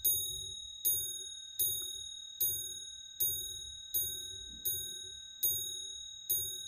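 Antique wind-up marble mantel clock striking the hour on its gong. Evenly spaced strokes about every 0.8 s, nine of them here, each a bright metallic ring that dies away before the next.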